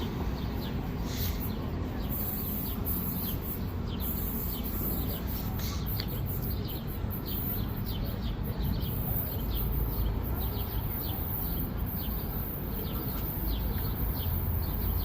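Small birds chirping, many short high chirps in quick succession, over a steady low background rumble.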